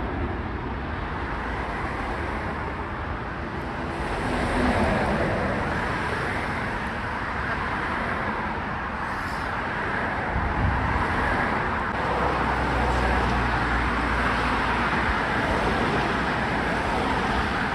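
Steady rumble and hiss of road traffic, with a deeper rumble building from about ten seconds in.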